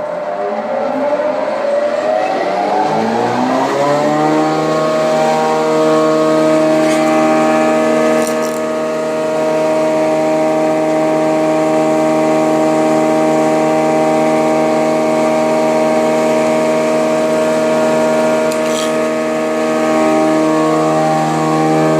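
SF-4 surface jointer's electric motor and cutterhead spinning up after switch-on, rising in pitch over about four seconds, then running steadily at full speed with an even, many-toned hum.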